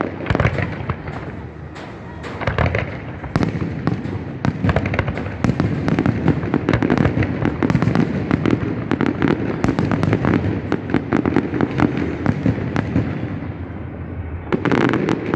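Fireworks display: a dense run of rapid crackles and bangs over a low rumble, thinning out toward the end, then one loud burst shortly before the end.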